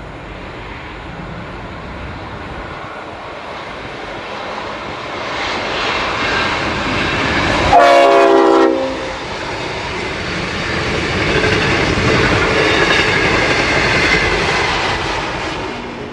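Diesel locomotive-hauled passenger train passing: the locomotive's horn sounds once for about a second midway, a chord of several tones that drops slightly in pitch as it goes by. The rumble and clickety-clack of the carriages rolling past builds afterwards and cuts off suddenly at the end.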